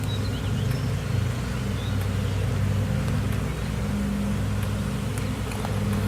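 Loud, steady hum of many honey bees flying around an opened hive, with a few faint clicks.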